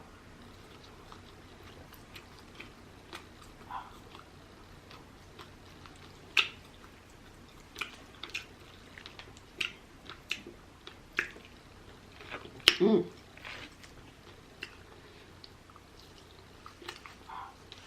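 Close-miked chewing and biting of rotisserie chicken: irregular wet mouth clicks and smacks, with one louder, fuller mouth sound about thirteen seconds in.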